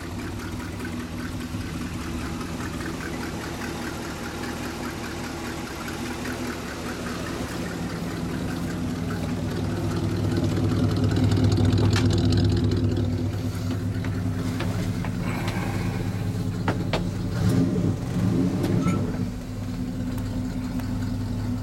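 1979 Dodge Li'l Red Express truck's 360 V8 running, growing louder towards the middle and then easing back. A few sharp clicks come in the second half.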